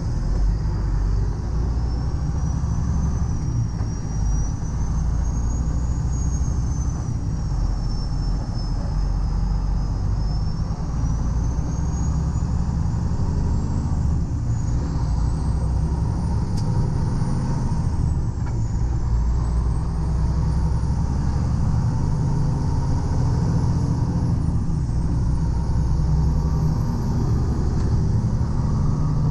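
Heavy tow truck under way with a semi tractor in tow: a steady low rumble of engine and road. A thin high whine drifts slowly up and down in pitch over it.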